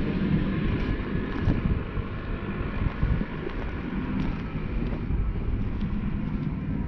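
Wind buffeting the microphone: an uneven, gusting low noise.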